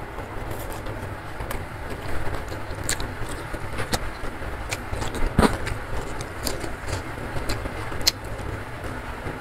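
Close-miked eating sounds: a person chewing and crunching raw leafy vegetables and rice, with sharp crunch and click strokes and one louder crunch about halfway through, over a steady low background rumble.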